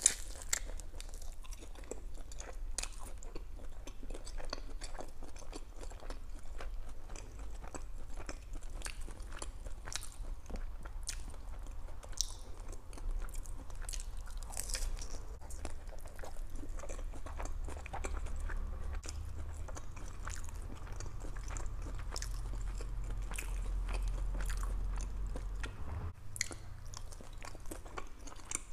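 Close-miked chewing and biting of crispy fried food, with irregular sharp crunches all through.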